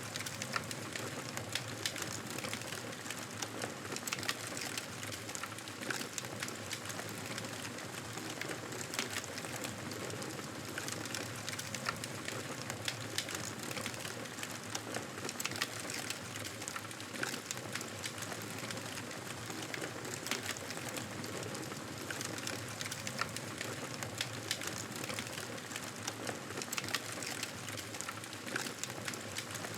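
Wood fire crackling in a fireplace: a steady hiss with frequent, irregular small pops and snaps.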